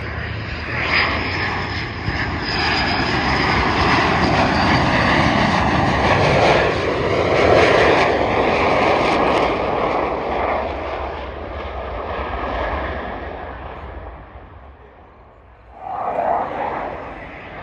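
An airplane flying past at an airshow: engine noise builds to a peak about halfway through, then fades as it moves away. A short separate sound comes near the end.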